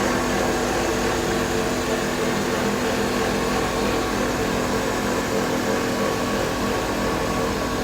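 Carbonization furnace machinery running: a steady, loud motor-and-fan hum with several constant tones over a rushing noise.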